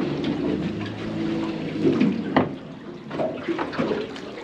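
Water running and splashing on a fishing boat, with a low steady hum under it and a single knock about two and a half seconds in.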